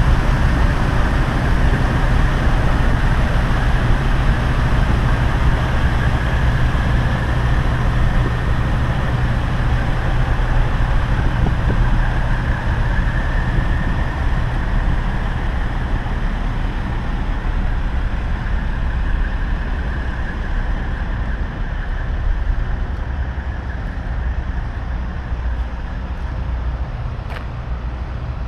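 A semi-truck on the move: steady engine drone with road and tyre noise, easing off gradually over the last third.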